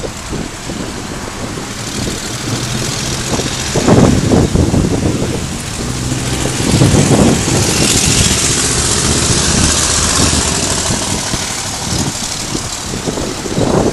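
Vehicle engine running under heavy wind noise on the microphone, with strong gusts about four and seven seconds in and a loud rushing hiss a little after the middle.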